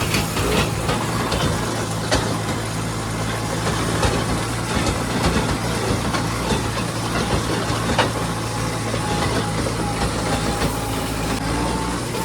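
Farm tractor engine running at a steady speed, with a few irregular knocks and rattles from the machinery.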